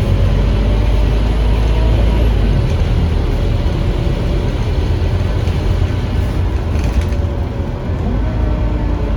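Scania K310UA articulated bus under way, heard from inside the cabin: a steady low rumble from its Scania DC9 five-cylinder diesel and the road, with a faint engine and gearbox hum. Near the end the tones rise as it picks up speed.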